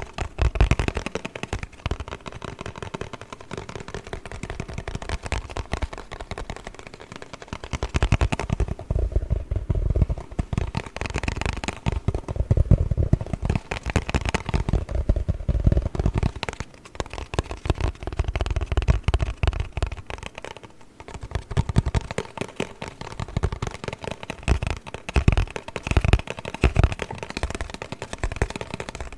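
Fast, dense tapping and scratching on a cardboard box, with frequent low thumps, coming in waves that ease off and pick up again a few times.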